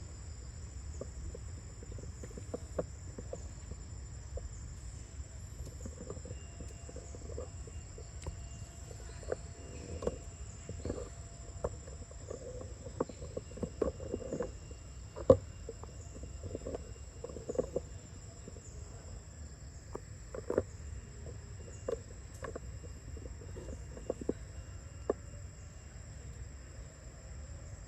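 Steady high-pitched insect chorus, crickets or cicadas, with many scattered short clicks and taps over a low rumble. The loudest tap comes about halfway through.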